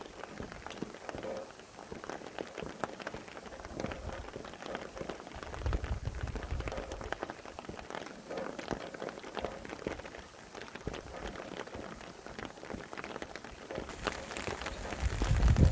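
Steady rain falling, with many individual drops pattering on a surface. Gusts of wind rumble in twice: once about six seconds in and again near the end.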